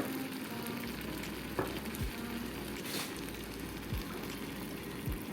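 Sambal sizzling steadily as it fries in oil in a frying pan, with a few light clicks of the stirring utensil against the pan.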